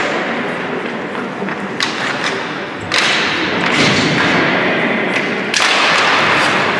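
Ice hockey game noise in an arena: a steady wash of crowd and rink noise with thuds and knocks of puck and sticks, getting louder about three seconds in and again near the end.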